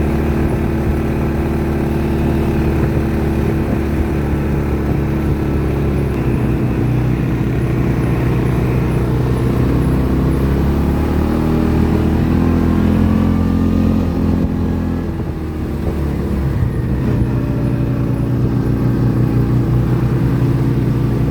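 ATV engine running under way, its pitch rising and falling as the throttle changes, with a short drop in engine note about fifteen seconds in before it picks up again.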